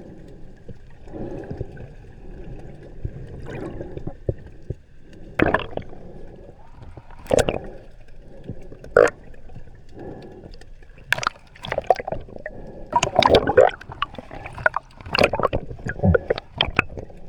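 Water gurgling and sloshing, with a run of sharp splashy clicks that grows busier in the second half.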